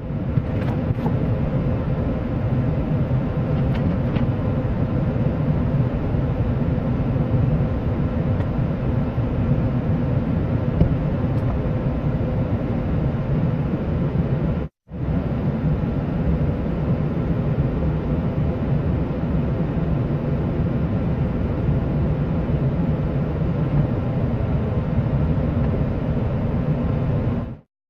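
Truck engine running steadily, a low even rumble; it cuts off for a moment about halfway and resumes the same.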